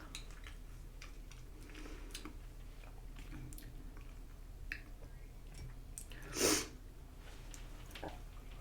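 Close-up chewing and mouth sounds of a person eating, faint wet clicks and smacks. About six and a half seconds in comes one louder, short breath through the nose.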